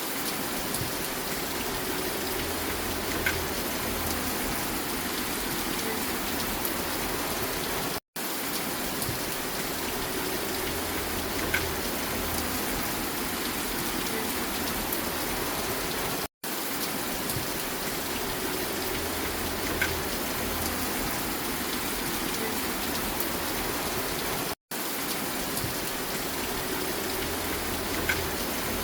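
Steady rain falling on a surface, an even hiss of many drops. It is a short loop of about eight seconds: the sound cuts out for a split second at each seam, three times, and one slightly louder drop recurs once per loop.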